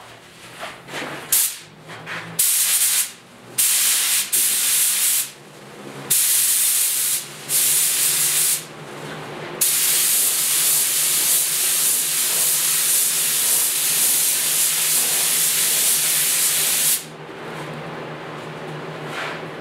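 Automotive clear coat spraying onto a motorcycle fuel tank: a string of short hissing bursts, then one long pass lasting about seven seconds that stops suddenly.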